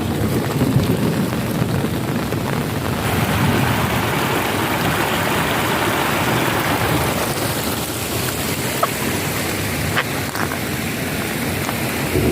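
Heavy rain pouring steadily, with a low wind rumble on the microphone; the hiss of the rain grows stronger about three seconds in.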